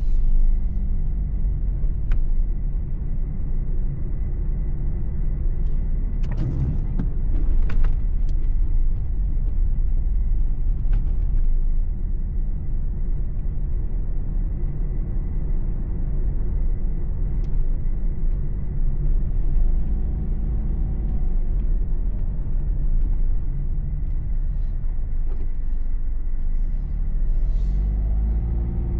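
Car engine and tyre road noise heard from inside the cabin while driving: a steady low rumble. The engine note rises about twenty seconds in and again near the end. A few sharp knocks come around six to eight seconds in.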